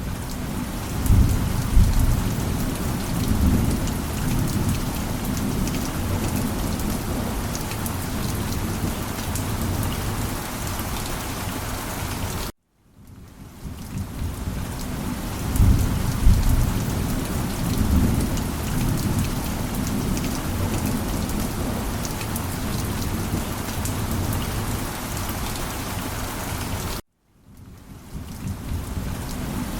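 Steady heavy rain with deep rolls of thunder rumbling underneath. Twice the sound cuts off abruptly and fades back in, and each time a thunder rumble swells up a few seconds after it returns, as a short recording repeating.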